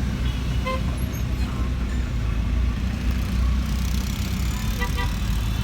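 Truck engine and road noise in a steady low rumble, with short horn toots: one about a second in and two quick ones near the end.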